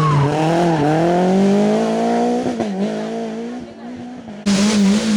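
Rally car engine revving hard as it accelerates away, its pitch climbing and then dipping at a gearshift about two and a half seconds in before the car fades into the distance. Near the end the sound cuts abruptly to another car, loud and close.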